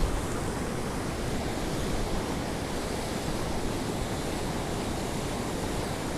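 Steady rush of fast-flowing river water, with a waterfall just downstream.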